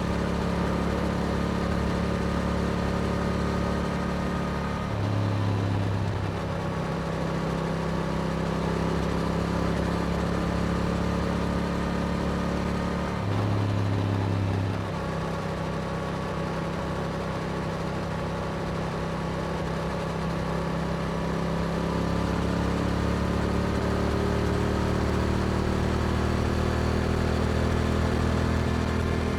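Yamaha R7 parallel-twin engine running through an Akrapovic exhaust on the move. The note holds steady, changes briefly twice, about five and thirteen seconds in, then climbs gradually over the last several seconds as the bike speeds up.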